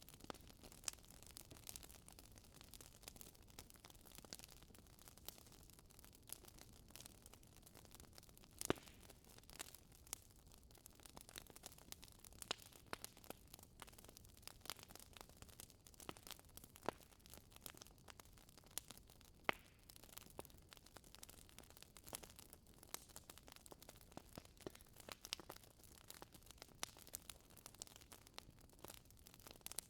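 Wood fire crackling in a fireplace: quiet, irregular snaps and pops from the burning logs over a faint hiss, with a couple of sharper pops about nine and nineteen seconds in.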